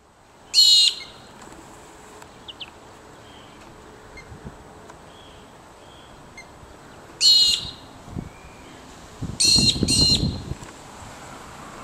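Short, loud bird calls: one about half a second in, another about seven seconds in, and two in quick succession near the end, the last pair over a low rumble.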